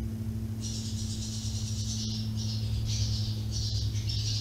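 Birds calling in a run of high-pitched, harsh bursts one after another, starting about half a second in, over a steady low hum.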